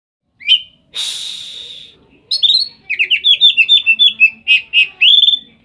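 Oriental magpie-robin (kacer) singing loudly, a song full of learned imitations: a short rising note, a harsh buzzy note lasting about a second, then a fast run of sharp chirping phrases that ends on a rising note.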